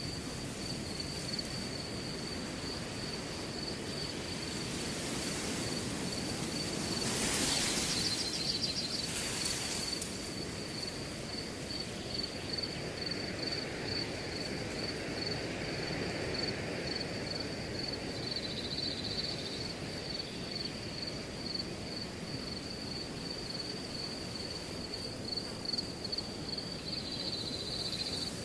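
Wind blowing through a grass field, a steady rush that swells into a stronger gust about seven seconds in. Over it a cricket chirps without pause in a fast, even, high-pitched pulse.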